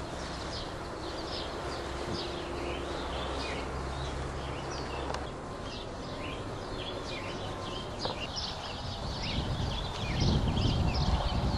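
Many small birds chirping and twittering together in quick, overlapping calls. A low rumble swells briefly near the end.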